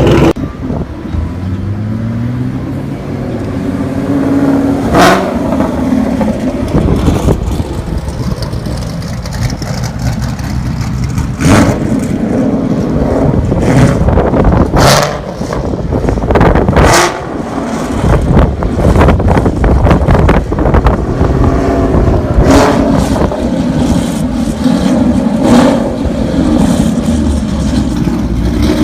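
2013 Mustang GT's 5.0 Coyote V8 through a full aftermarket exhaust (Kooks longtube headers, off-road X-pipe, Corsa Xtreme axle-backs), loud and revving: the engine note climbs in pitch and drops back several times.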